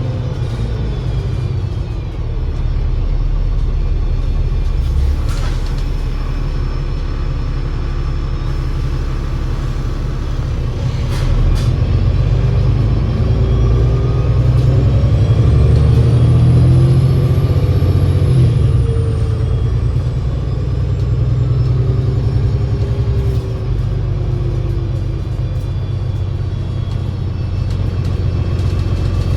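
Alexander Dennis Enviro500 MMC double-decker bus with a Voith DIWA 864.5 automatic gearbox running under way: a steady low engine and driveline drone. From about 12 s the engine note and loudness rise, and a thin high whine rises and then falls away over several seconds. A few sharp clicks come at about 5 s and 11 s.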